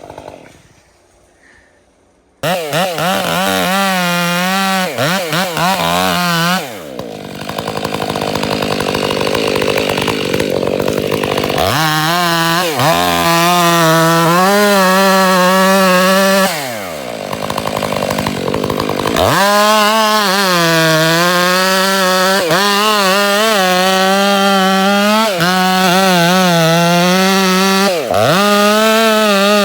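Two-stroke chainsaw cutting timber at high revs. It comes in suddenly after about two quiet seconds, then the revs drop away and climb back up several times.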